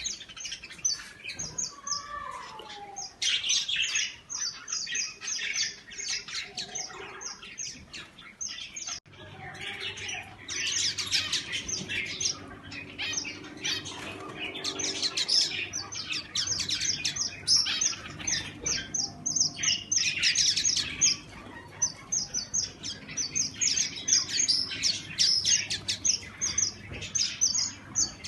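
Many finches in an aviary chirping at once: a dense chorus of rapid, high, overlapping short notes.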